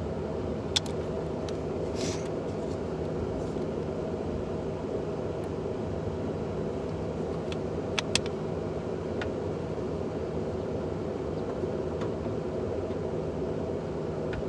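A steady engine-like hum runs throughout, with a few short, sharp clicks and taps: one about a second in, one about two seconds in, and two close together about eight seconds in.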